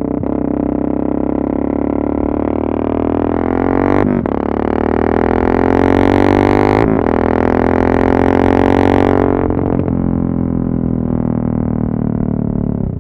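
Yamaha MT-03 660's single-cylinder engine running loud through an exhaust with the dB-killer baffles removed. It pulls up in revs, breaks briefly for a gear change about four seconds in and again about seven seconds in, then eases off near the end.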